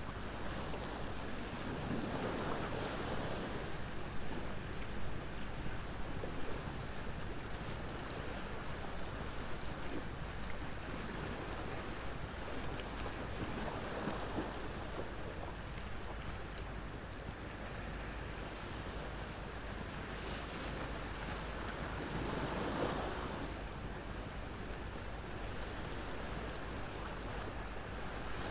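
Ocean waves washing onto the shore, swelling and fading every several seconds, under a wood bonfire that gives a few sharp crackles and pops.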